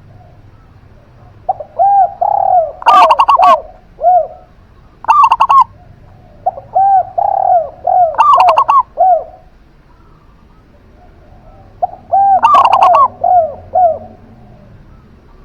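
Zebra dove and spotted dove cooing in turn, in four phrases. Softer, rounded coo notes mix with loud, short, bright trilled notes, with pauses between the phrases.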